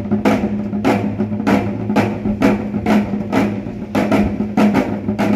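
Korean pungmul (maegut) percussion ensemble playing a fast, even drum rhythm of about four strikes a second.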